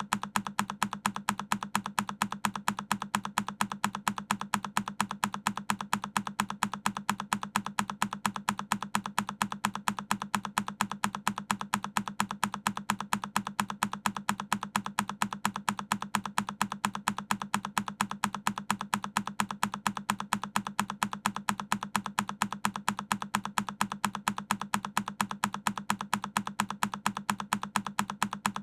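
A single key on a Keychron K10 mechanical keyboard being pressed over and over, each press a sharp click, repeating evenly a few times a second.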